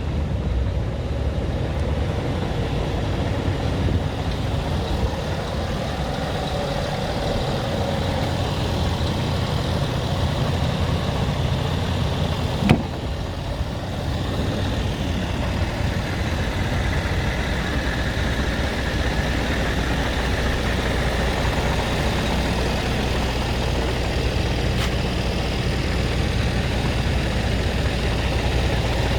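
Scania R tractor unit's diesel engine idling steadily, with one sharp knock about halfway through.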